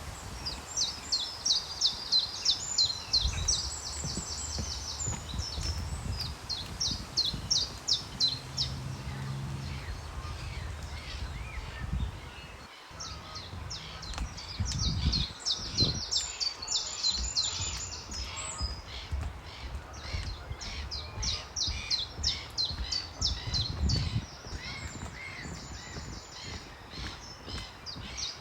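Small songbirds singing in quick runs of high chirps, with a low, uneven rumble underneath.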